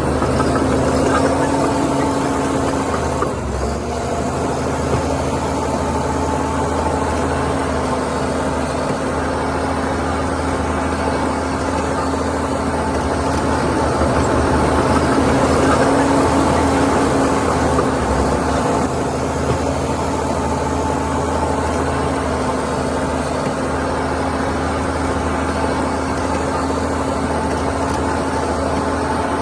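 Heavy diesel earthmoving machinery running steadily, a continuous engine drone with a constant hum through it. It grows a little louder about halfway through, then settles.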